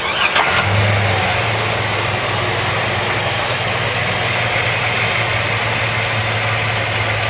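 Chevy S10's 4.3-litre V6 starting, with a short rising sweep as it catches, then settling into a steady idle.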